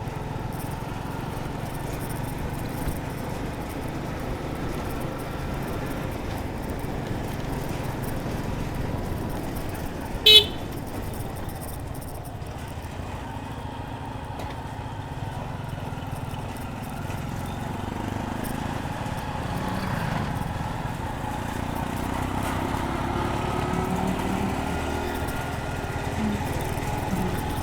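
Suzuki Gixxer 155 motorcycle under way, its single-cylinder engine and the wind and road noise steady. A horn gives one short, sharp toot about ten seconds in.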